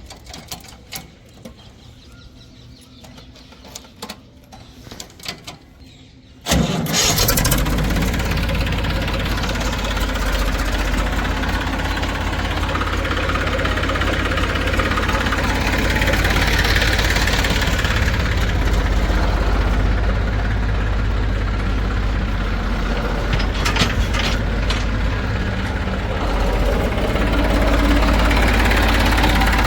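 Heavy diesel engine of a backhoe or tractor coming in suddenly about six seconds in after a quiet stretch with a few small clicks, then running steadily, a little louder near the end.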